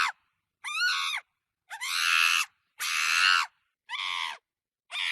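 A series of five short, high animal cries, each about half a second long and bending in pitch, spaced roughly a second apart with dead silence between them.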